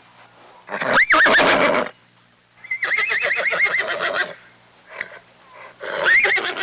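Horse whinnying, three calls: a short squeal about a second in, a long trembling whinny in the middle, and another starting near the end.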